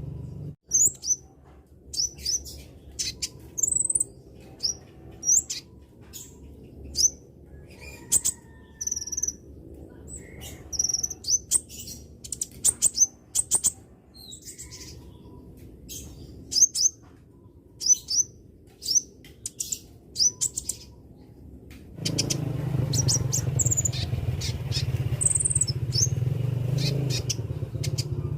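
Konin bird calling in short, sharp, high chirps, one or two every second or so, some gliding down in pitch. About two-thirds of the way through, a low rumbling background noise comes up under the calls.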